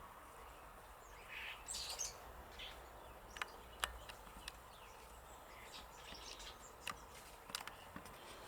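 Small birds chirping faintly in scattered short calls, with a few sharp clicks in between.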